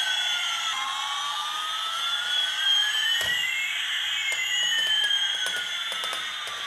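Electronic sound effect from a battery-powered toy: two synthetic tones slowly gliding up and down against each other in a siren-like sweep, with a few light plastic clicks.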